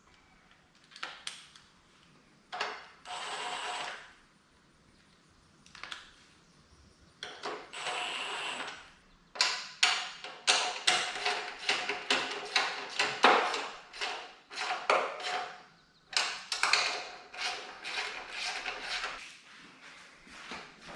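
Installation work: two short runs of a small motor, then a long string of clicks, knocks and clatter of tools and hardware.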